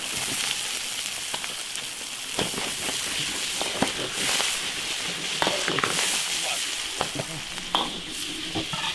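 Seasonings and fish bones frying in hot oil in an iron wok: a steady sizzle, with a metal ladle scraping and clicking against the wok now and then as they are stir-fried until fragrant.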